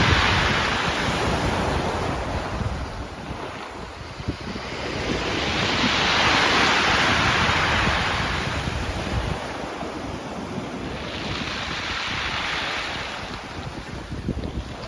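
Sea surf washing onto the shore in waves that swell and fall back about every five to six seconds, with wind rumbling on the microphone.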